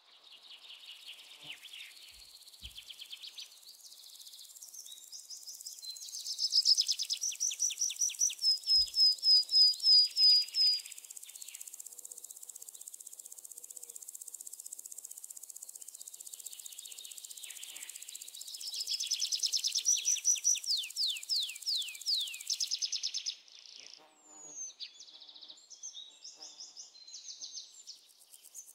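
Birds chirping: two long runs of rapid, repeated high notes, the second ending in a string of falling notes, over a steady high insect-like hiss that stops about 23 seconds in.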